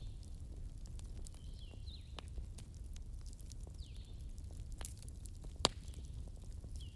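Wood fire burning in a fireplace: scattered crackles over a low rumble, with one sharp pop about five and a half seconds in. Faint high squeaks recur about every two seconds.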